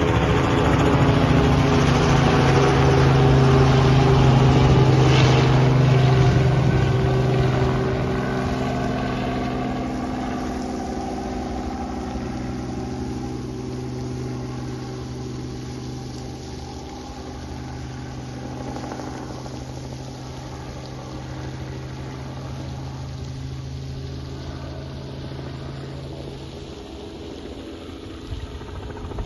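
Robinson helicopter's engine and rotors running, a steady, even hum with many overtones that grows gradually quieter from about seven seconds in.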